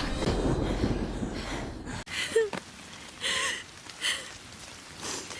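A noisy hiss and rumble fading away for about two seconds, cut off suddenly, then a few short wordless vocal noises from a cartoon girl, one gliding in pitch.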